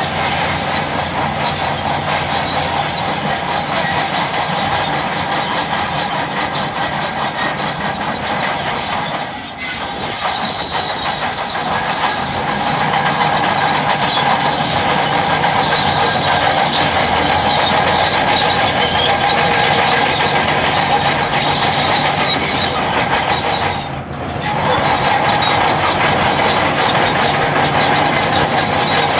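Bulldozer at work: engine running steadily with the rolling clatter and whine of its steel tracks. The sound drops briefly twice, about nine and twenty-four seconds in.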